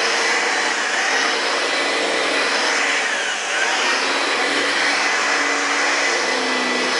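Singer Twin Turbo upright vacuum cleaner, built by Ryobi, running on carpet with its twin fans and power-head beater brush. The motor hum is loud and steady, shifting up and down in pitch every second or so.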